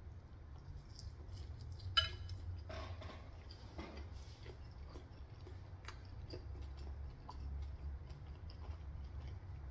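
Faint chewing and small mouth clicks from someone eating Korean fried chicken, with one sharper click about two seconds in, over a low steady hum.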